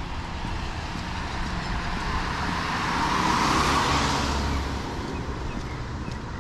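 A car passing on a wet road: a tyre hiss over a low engine rumble that swells to its loudest about three and a half seconds in, then fades away.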